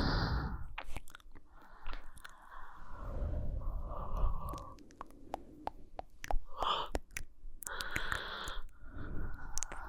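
Close-miked human breathing: slow breaths in and out, several in turn, each a soft breathy swell of about a second. Small wet mouth and lip clicks fall between the breaths.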